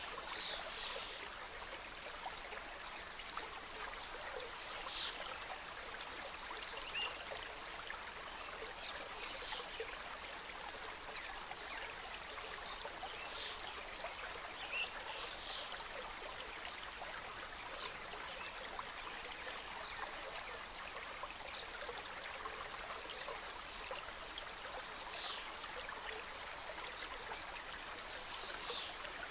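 Mountain stream cascading over rocks in a forest, a steady rush of flowing water.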